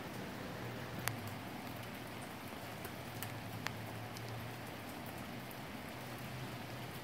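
Steady rain falling, with a few sharp drop taps standing out: one about a second in and another just past the middle.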